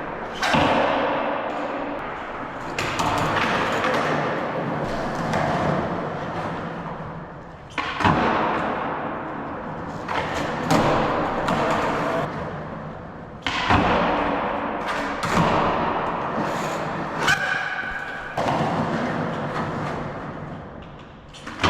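Skateboard wheels rolling on concrete, broken about eight times by sharp clacks of the board hitting the ground. A brief high squeak comes about three-quarters of the way through.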